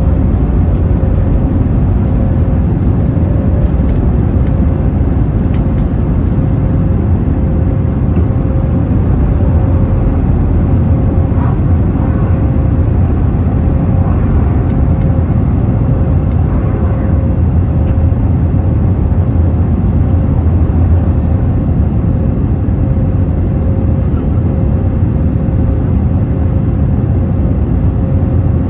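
Airbus A321neo jet airliner under way: its engines and airflow make a steady, loud low rumble with a faint steady hum above it.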